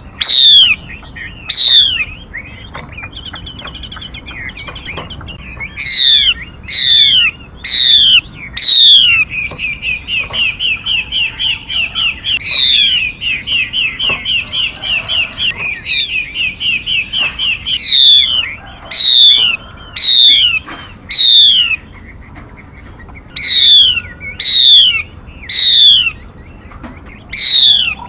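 Lure recording of a female 'mi' songbird calling: loud downward-sliding whistled notes repeated in clusters of two to four. In the middle comes a long, fast chattering run of short notes, several a second.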